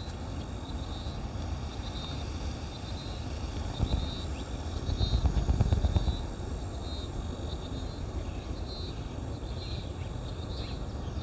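Outdoor ambience: a steady low rumble that swells for a couple of seconds near the middle, under short high chirps repeating about once a second.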